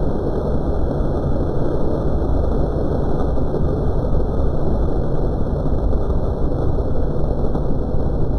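Steady, loud mechanical droning noise with a low hum underneath, unchanging throughout.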